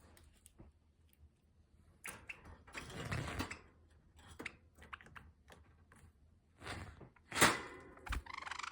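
A pet Java sparrow moving about in its cage: scattered clicks and taps, a rustle a few seconds in, and one sharp tap near the end, then the start of a short buzzy call at the very end.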